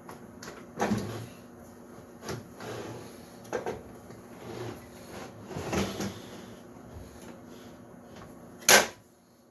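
Scattered knocks and clunks from a router fence being handled and set in place on a wooden router table top, about five in all. The loudest is a sharp knock near the end.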